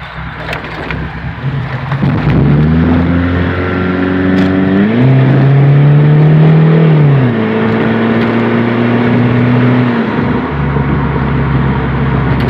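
Straight-piped GM 2.2L four-cylinder in a Chevy Cavalier accelerating hard, its exhaust note climbing steeply in pitch. The note then falls in two steps, at about seven and ten seconds in, and settles at a lower drone. It is loud and distorted through a phone's microphone.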